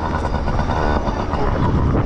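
Small two-stroke dirt-bike engine, likely a Yamaha PW50, running under way. Its revs waver and turn uneven instead of holding a steady note.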